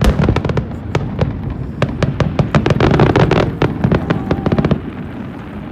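Fireworks bursting overhead: a dense, rapid crackle of many sharp pops over a low rumble, dying away about five seconds in.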